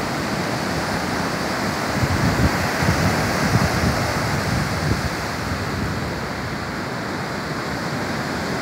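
Ocean surf washing in steadily, with low wind buffeting on the microphone, strongest a couple of seconds in.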